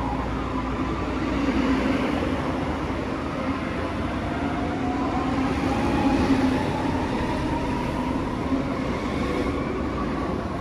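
Train running, with a steady hum over a broad rumble and a whining tone that glides up and back down about halfway through.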